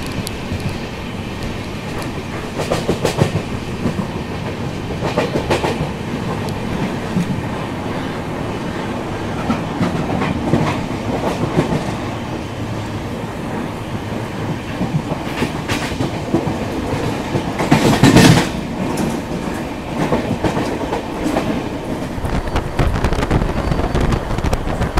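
Passenger train running on the rails, heard from an open coach door as it pulls out of a station and gathers speed: a steady rumble with clusters of wheel clicks over rail joints. One short, loud burst about three-quarters of the way through.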